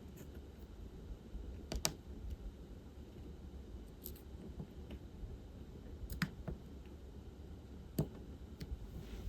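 Light, sharp clicks of diamond painting work, a few seconds apart: a drill pen tapping resin drills onto the sticky canvas and against the plastic tray. A low steady hum sits underneath.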